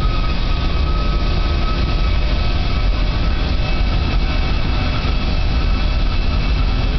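Rolls-Royce Trent 500 turbofan, engine number 4, running steadily at high power in a ground run-up: a loud, even, deep rumble with a faint steady whine above it.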